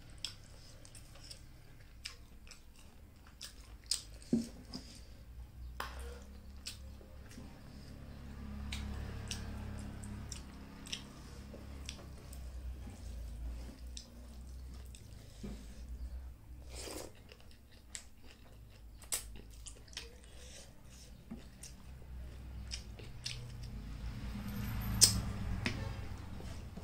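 Close-up mouth sounds of someone chewing a mouthful of soup-soaked rice, with fingers squishing rice on the plate. Many small clicks are scattered through it, and one sharp click comes near the end.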